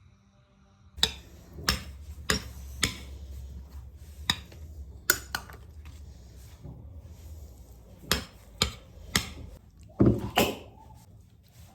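Irregular sharp knocks and clatters of hard objects being handled, about a dozen over ten seconds, starting about a second in, over a low steady hum.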